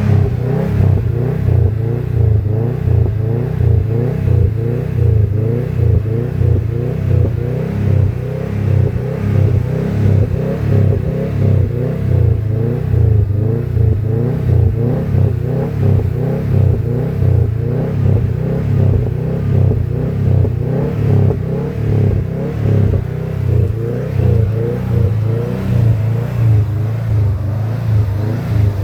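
Subaru Impreza WRX STI's turbocharged flat-four idling, heard at the exhaust, a deep uneven rumble that swells and dips about once a second. The engine is cold and being left to idle to warm up.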